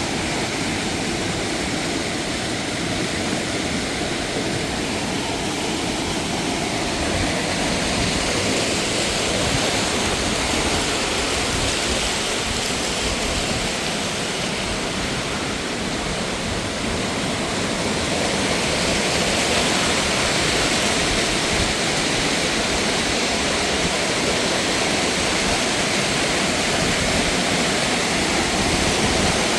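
Mountain waterfall: a steady, dense rush of falling water, slightly louder in the second half.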